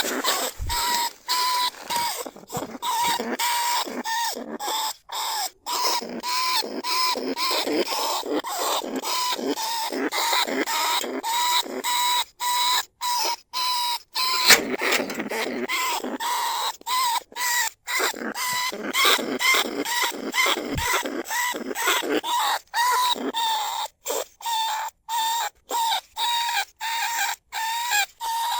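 Lesser bandicoot rats calling from a trap cage: a dense, continuous run of short squeaks and chattering calls with a recurring high note, broken by many brief gaps.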